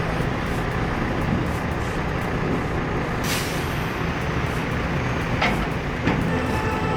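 Heavy machine's diesel engine running steadily, with a short burst of hiss about three seconds in and two sharp knocks near the end.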